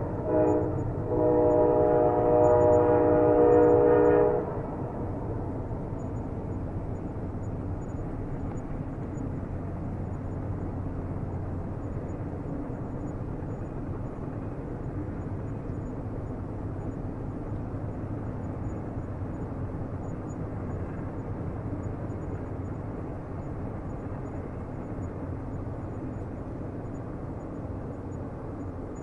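Train horn blowing: one blast breaks off just after the start, a second sounds and cuts off about four seconds in. After it, the steady low rumble of the train running.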